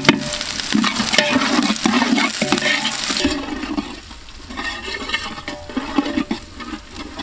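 Onions and green chillies frying in oil in a large metal pot, sizzling while a steel ladle stirs and scrapes against the pot with sharp clicks. The sound gets noticeably quieter about three to four seconds in.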